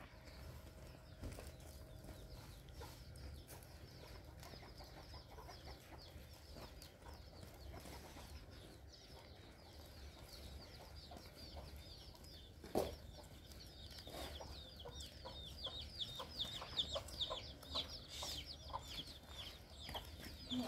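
Birds chirping faintly, many short high calls that grow busier in the second half, with one sharp knock about thirteen seconds in.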